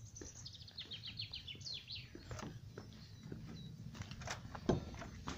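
A songbird singing one quick phrase of short notes that fall steadily in pitch and end in a brief flourish, followed by a few scattered clicks and knocks.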